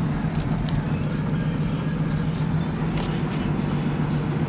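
Car interior while driving: a steady low engine hum over road noise.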